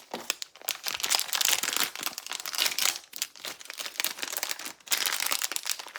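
Blind-box packaging crinkling and rustling as it is handled and opened: a dense run of small crackles, with brief lulls about three and five seconds in.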